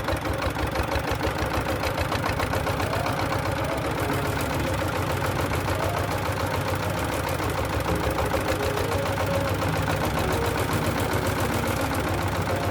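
Daedong power tiller's single-cylinder diesel engine idling with a fast, even beat.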